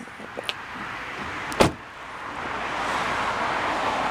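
A couple of light clicks, then a sharp car-door clunk about a second and a half in. A steady rushing noise follows and swells toward the end.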